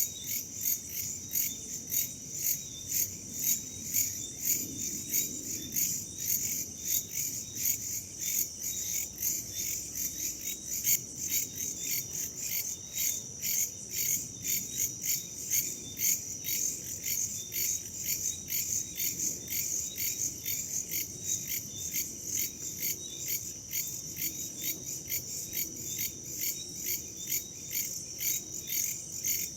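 Chorus of night crickets and other insects, chirping in a steady, fast pulse of several chirps a second, high-pitched, over a soft low rush of wind.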